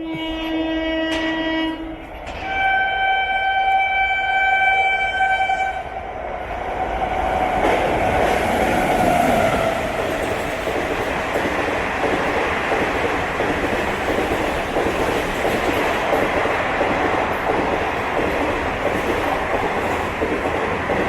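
Yuva Express running through the station at speed without stopping. The locomotive horn sounds twice, a lower blast of about two seconds and then a higher one of about three, and then the coaches rush past close by with a steady rattle of wheels over the track.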